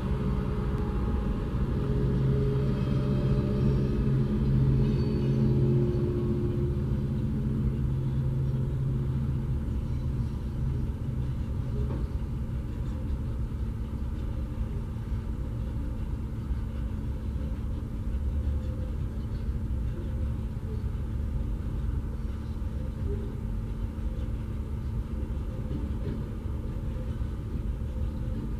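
Freight train passing over a level crossing: the diesel engines of Tasrail locomotives TR11 and TR04 drone steadily for the first eight or nine seconds and fade, leaving the steady low rumble of the wagons rolling by.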